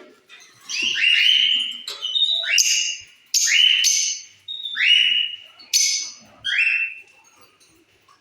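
Lovebirds giving loud, shrill repeated calls, about one a second, each a harsh squawk sliding into a held piercing note.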